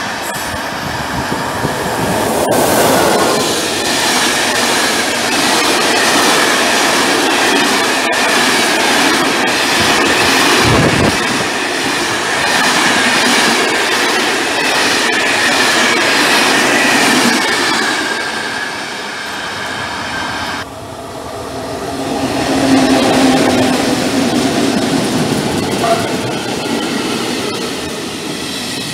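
Freight wagons rolling past close by, wheels clattering over the rails with a steady high wheel squeal. After a sudden cut about two-thirds through, a passenger train of coaches runs past with a low steady hum.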